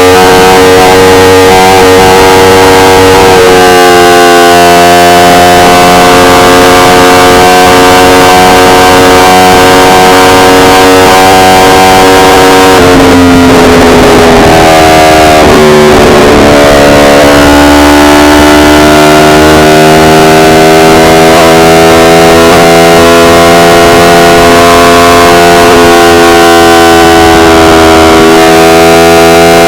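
Yamaha R1's inline-four engine running at a steady rev while riding, its pitch stepping up a few seconds in. About halfway through the revs fall away for a few seconds, then climb back to a steady note. Recorded very loud, right up to full scale.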